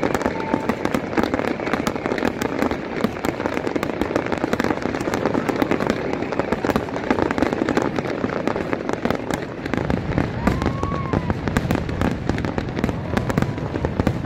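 Large fireworks display: a rapid, unbroken barrage of bangs and crackles, growing heavier in the low booms about ten seconds in, with a brief whistle rising and falling around then.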